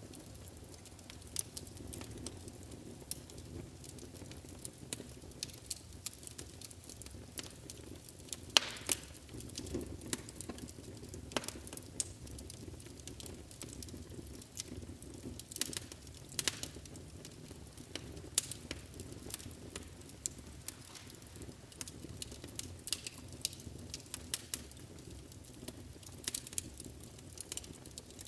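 Wood fire burning in a fireplace: irregular sharp crackles and pops over a low, steady rumble of the flames, with one louder pop about eight and a half seconds in.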